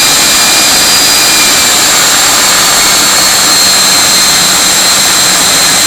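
Viper11 90 mm electric ducted fan, driven by a 39 mm inrunner motor, running at speed: a loud steady rush of air with high whining tones, one of which drops slightly in pitch about halfway through.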